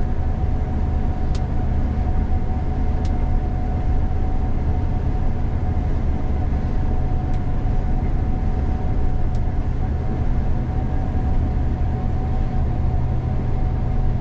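Combine harvester running steadily in the field, heard from inside the cab: a constant low rumble with an even whine over it and a few faint ticks.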